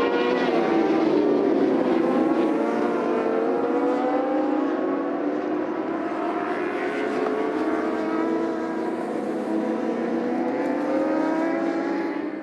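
Several racing motorcycle engines running at high revs together. Their overlapping pitches slowly rise and fall as the bikes lap the circuit.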